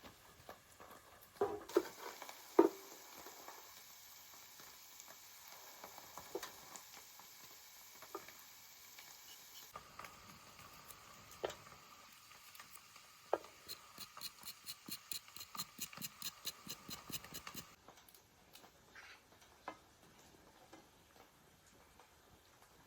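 Scattered light knocks and clicks, then a quick even run of taps, about five a second, lasting a few seconds, over a faint background hiss.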